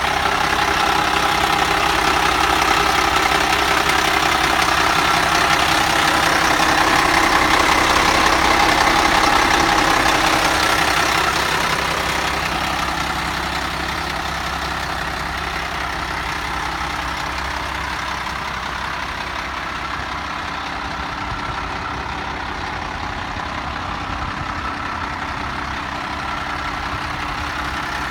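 1995 International 4900 truck's diesel engine idling steadily. It is louder for the first ten seconds or so, then eases down and holds at a lower, even level.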